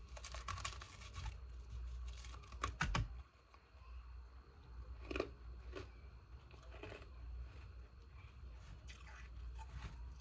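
Ice being bitten and chewed: a crackly stretch of crunching, then two sharp loud cracks about three seconds in, followed by scattered smaller crunches.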